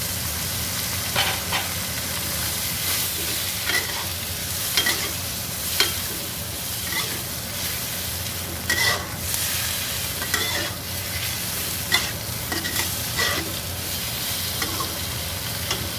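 Whole raw shrimp frying in butter in a wok: a steady sizzle, broken by irregular scrapes and clinks as a metal spatula stirs and turns them against the pan.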